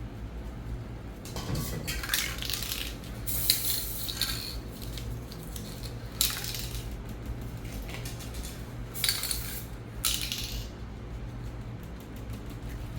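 Aerosol spray paint cans in use: about six short hissing bursts, irregularly spaced, with light metallic clinks, over a steady low hum.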